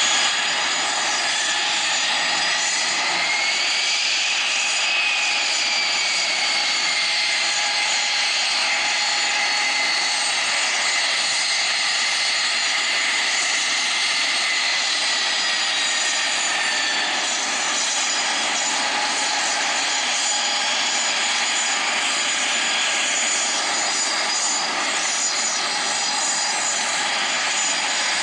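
Business jet turbofan engines running, a steady rush of noise with high whines. One whine rises about four seconds in, then slowly sinks in pitch over the next dozen seconds.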